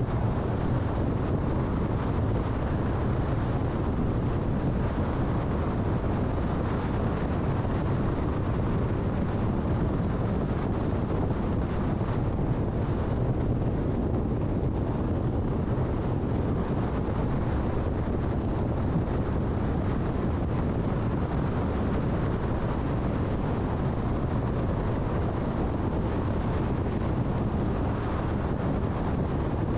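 Steady road and wind noise of a car cruising at freeway speed: an even rush, strongest in the low range, with no changes.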